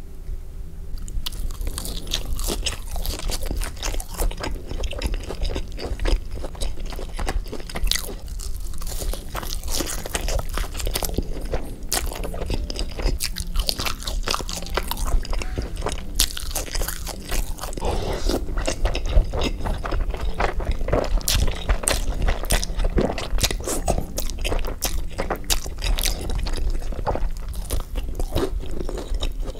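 Close-miked mukbang eating: crisp crunching bites and wet chewing of fried food, a breaded mozzarella stick and then a fried chicken sandwich, starting about a second in.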